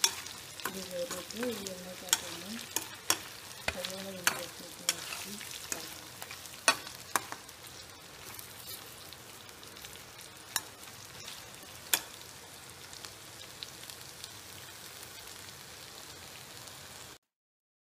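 Chicken pieces sizzling in oil in a black wok, with a slotted spatula clicking and scraping against the pan as it stirs them. The clicks come often at first and thin out after about twelve seconds, leaving a steady sizzle that cuts off suddenly near the end.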